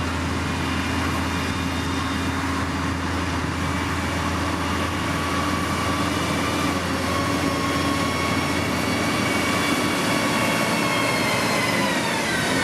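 Heavy construction machine's engine running steadily, its pitch falling near the end.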